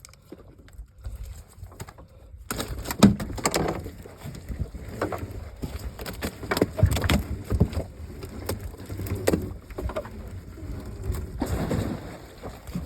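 Irregular knocks and thumps aboard a small fishing boat, starting suddenly about two and a half seconds in over a rushing noise.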